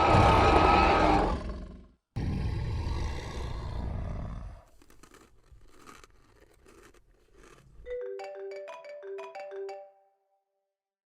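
A loud, harsh roar-like sound effect for about the first four seconds, in two stretches, fading out. About eight seconds in, a mobile phone ringtone plays a quick tune of short, bright notes.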